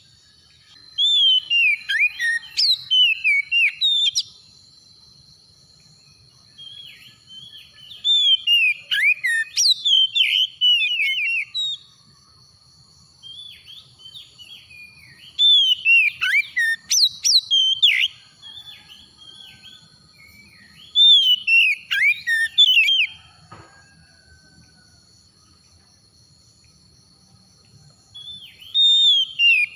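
Oriental magpie-robin (kacer) singing: loud bursts of varied whistled phrases made of rapid rising and falling notes, each burst lasting a few seconds, about five bursts with pauses and softer notes between them. A thin steady high tone runs underneath through the first two-thirds.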